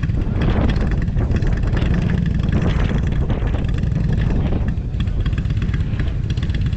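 Motorcycle engine running at low speed, its revs rising and falling with the throttle.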